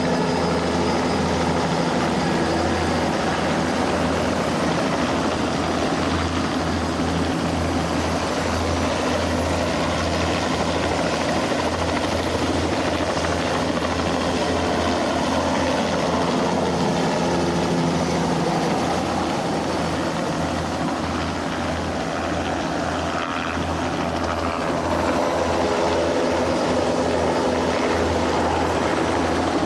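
Turbine helicopter running steadily: the engine and rotor make a continuous sound with a fast low rotor flutter.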